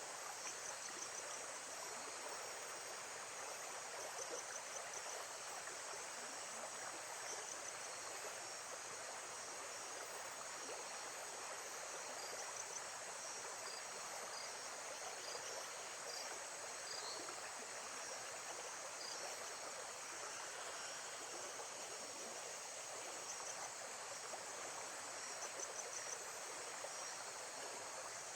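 Lake-side nature ambience: a steady rush of moving water with crickets chirping high above it in quick, repeated pulses.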